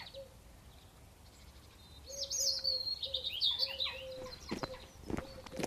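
Bird song: a rapid, high warbling phrase in the middle, over a lower short note that repeats about twice a second. Near the end come a few footsteps.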